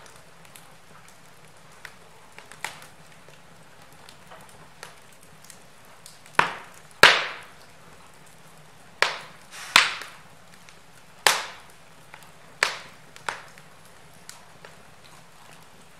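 Wood fire burning in a fireplace: a low steady hiss under scattered faint crackles, with a run of loud, sharp pops from about six to thirteen seconds in, each dying away quickly.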